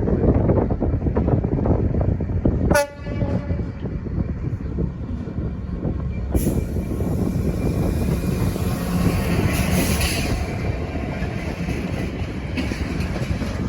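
A train running through the station at speed without stopping: a loud, steady low rumble and rail noise. A brief sharp break comes about three seconds in, and a high hiss joins from about six seconds in.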